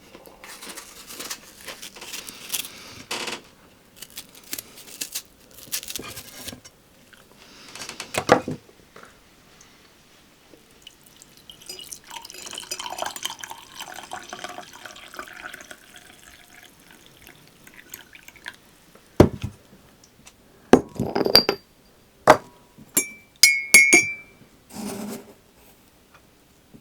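Kitchen work with glass and crockery: handling and rustling, then a run of sharp clinks near the end, several of them ringing briefly like glass or ceramic being set down or tapped together.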